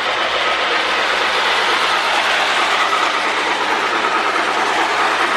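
Lionel 2055 Hudson O-gauge toy steam locomotive and tender running steadily on three-rail track: an even rolling and motor noise with a faint steady whine.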